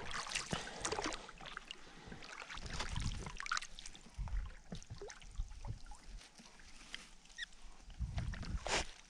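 Rowboat being rowed: oars splashing and knocking, with short squeaks from the oars working in their oarlocks.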